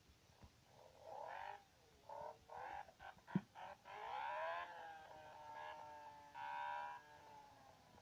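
1000cc V4 race motorcycle engine, faint, revving in several short bursts with breaks between them, its pitch rising and falling, then running on with a pitch that slides down. A single sharp knock about three and a half seconds in.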